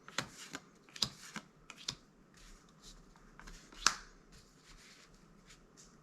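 Magic: The Gathering trading cards handled one by one through a booster pack: soft sliding and rustling of card stock broken by a few sharp card clicks, the loudest a little before four seconds in.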